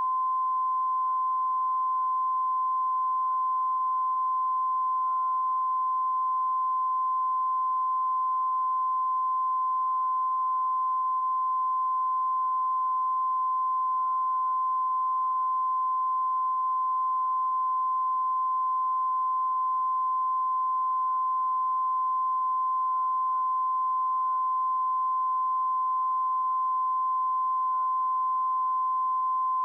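A steady, unbroken 1 kHz test tone, the signal a television channel transmits once it has gone off the air, with faint wavering sounds beneath it.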